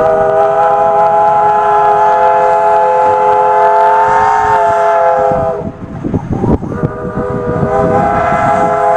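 Steam traction engine's whistle blowing, several notes sounding together: one long blast of about five and a half seconds, then after a short break a second blast starting near the end.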